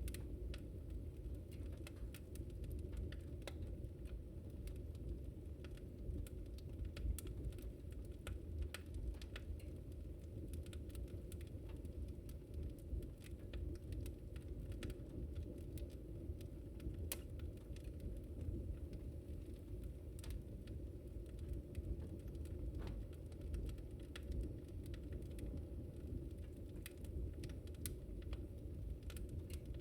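Wood fire crackling: irregular sharp pops and snaps scattered over a steady low rumble of the burning fire.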